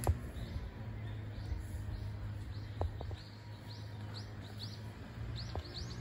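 Bird chirping: a run of short, high notes that come quicker and louder over the last few seconds, with a few sharp knocks, the loudest just after the start.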